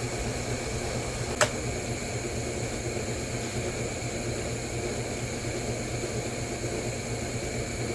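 A steady mechanical hum, like a running fan, with one sharp click about a second and a half in.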